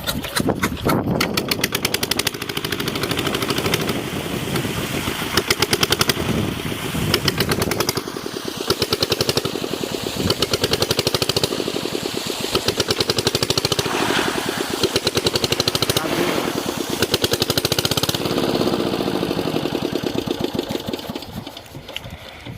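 A small engine running with a fast, even knocking beat. It eases off a little near the end.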